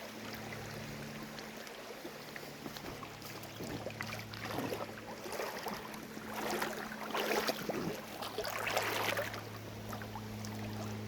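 River water running, with several louder sloshing splashes of water from about four to nine seconds in.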